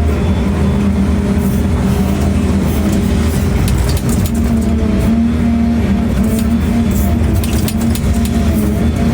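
Excavator's diesel engine running steadily under load while digging, with scattered light clicks over it.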